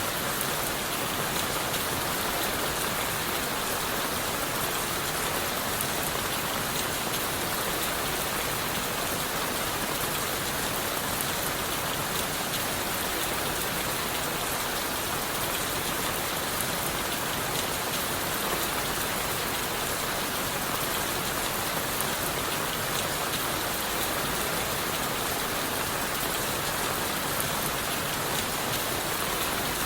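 Steady rain falling on leaves and wood, an even hiss thick with the small ticks of individual drops.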